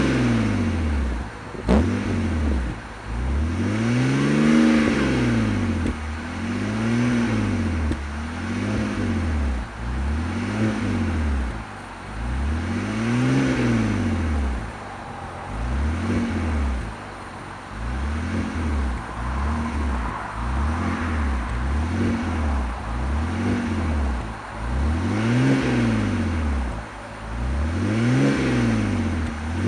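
BMW E92 328i's N52 3.0-litre straight-six, breathing through an aftermarket Scorpion exhaust, being blipped repeatedly while stationary. Each rev rises and falls back within a couple of seconds, over and over, with one sharp crack about two seconds in.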